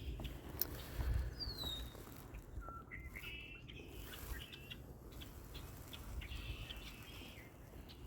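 Birds calling outdoors: a falling whistle, then a few clusters of short chirps, spread through, over a faint low rumble of wind or water.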